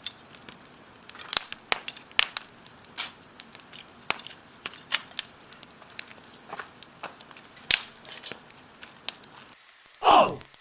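Wood fire crackling in a fire pit, with irregular sharp pops and snaps. A brief falling whoosh comes near the end.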